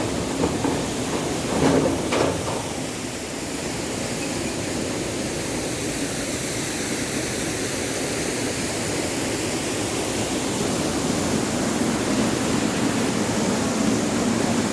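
Steady rushing of a waterfall falling from a great height, with a couple of short thumps about two seconds in.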